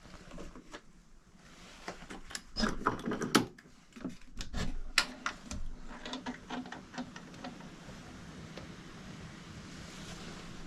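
Knocks, clicks and rubbing from a window being handled and its glass wiped clean. The clatter is busiest between about two and five and a half seconds in, then thins to light taps over a steady faint hum.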